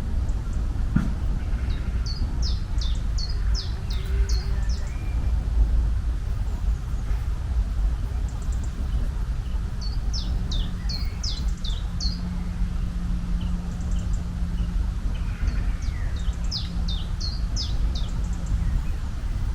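A songbird singing the same short phrase of quick, high, downward-sweeping notes three times, over a steady low rumble.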